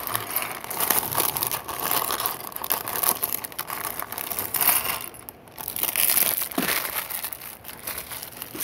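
Thin plastic bags crinkling and crumpling as they are handled and balled up, with a short pause about five seconds in.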